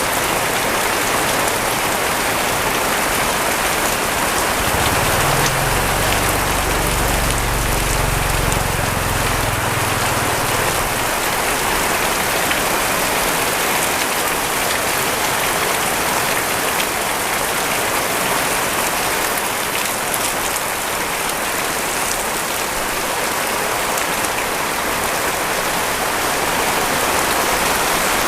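Heavy rain pouring steadily. A low rumble rises about five seconds in and fades out some six seconds later.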